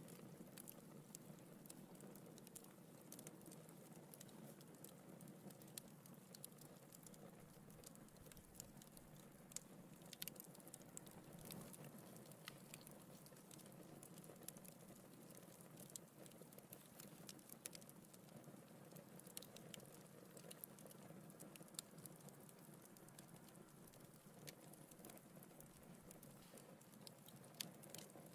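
Faint crackling of a wood fire in a fireplace: irregular small pops and snaps over a soft steady hiss of the flames, with a few sharper pops standing out.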